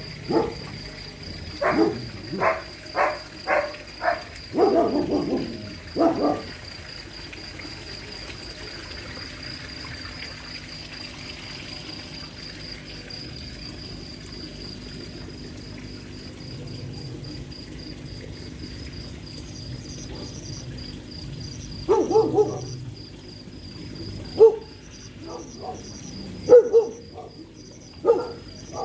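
A dog barking, a quick run of sharp barks over the first few seconds, then quiet with crickets chirping steadily. A few more short, sharp sounds come near the end.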